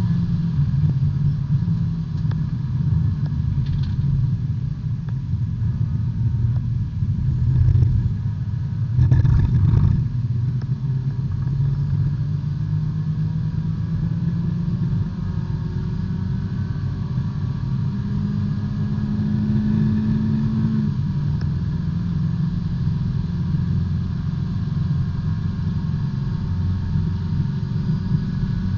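B-Spec race car's small four-cylinder engine running under load, heard inside the cabin, its pitch rising and falling with the throttle. A louder rush of noise comes about nine seconds in.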